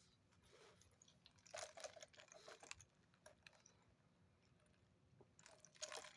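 A person chewing a mouthful of chicken sandwich: quiet mouth sounds in two spells, one about one and a half seconds in and another near the end.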